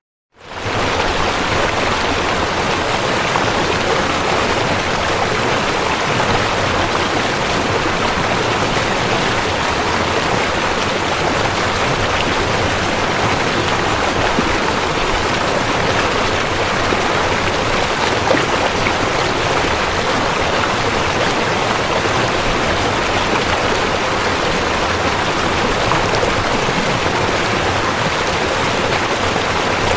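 River water flowing steadily, an even rushing hiss with no let-up, broken only by a brief gap of silence at the very start.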